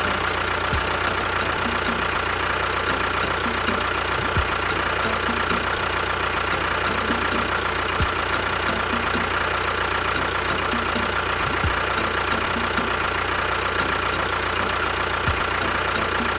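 The engine of a DIY mini tractor idling steadily, with a constant whine.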